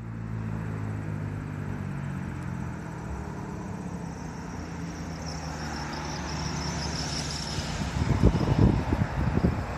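Steady low rumble of the diesel locomotives on an approaching Norfolk Southern doublestack freight train, still some way off. About eight seconds in, wind gusts buffet the microphone with irregular low thumps.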